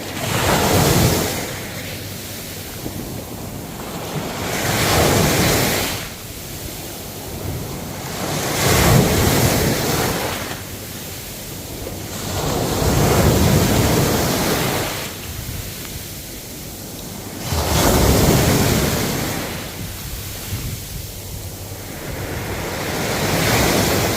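Ocean waves breaking on a shore. The surf rises into a rushing wash and falls back about every four seconds, six times.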